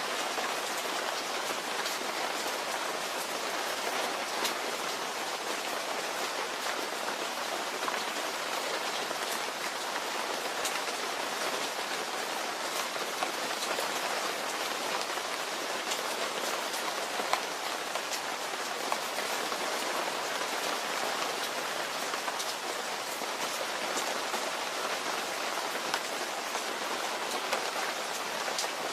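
Steady rain falling and pattering on a surface, an even hiss dotted with many small sharp drop ticks.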